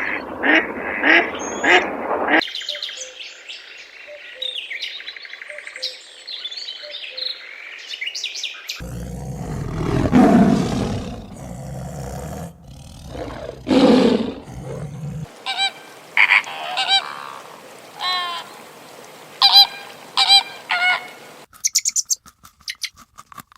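Ducks quacking in a rapid series, cut to high-pitched bird chirping. After that come louder, lower animal noises and then further repeated bird calls, with a few sharp clicks near the end.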